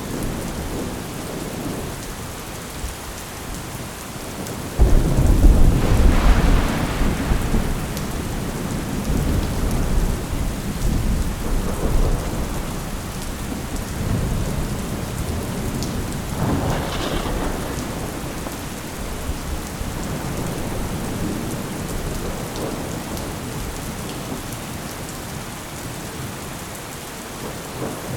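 Steady heavy rain with a thunderclap about five seconds in that rolls on as a deep rumble for several seconds, and a fainter roll of thunder later.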